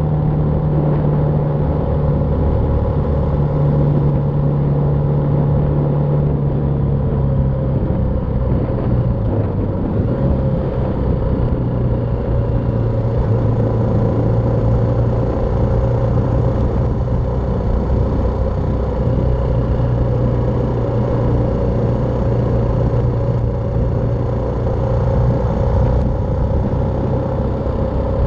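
BMW G310R's single-cylinder engine running steadily while the motorcycle is ridden, its pitch shifting down and back up a few times, over a steady rush of wind and road noise.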